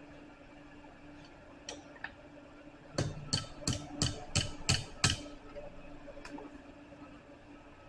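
Blacksmith's hammer striking steel on an anvil while forming a scroll: a couple of light taps, then a run of seven quick sharp blows at about three a second, and one last light tap, over a low steady hum.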